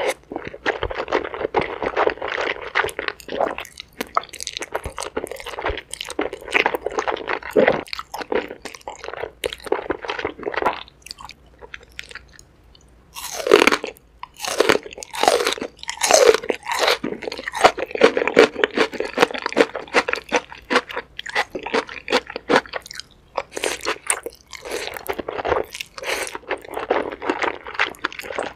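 Close-miked eating: chewing mouthfuls of black bean noodles and crunching on green onion kimchi, with wet mouth clicks. There is a brief pause about halfway through, followed by the loudest crunching.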